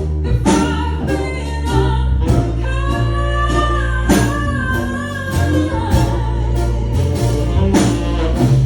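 Live band playing with a singer holding long, wavering notes over bass, guitar and regular drum hits.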